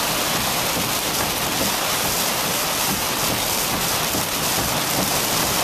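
Heavy hurricane rain falling in a steady, unbroken hiss.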